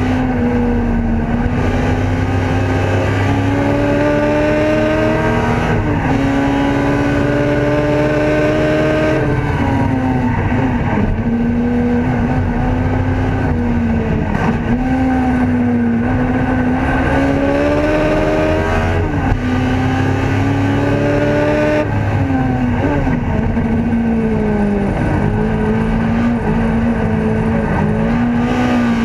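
Ford Escort race car's engine, heard from inside the cockpit at racing speed, its pitch climbing as it pulls through the revs and dropping sharply at each gearchange or lift, many times over.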